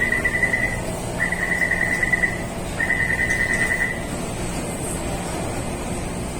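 Metro door-closing warning: three bursts of rapid high beeping, each about a second long, over the steady low hum of the train and station, the signal that the doors are about to shut before departure.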